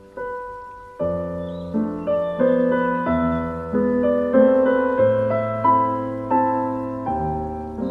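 Background piano music: a slow, gentle melody with sustained bass notes, each note struck and fading.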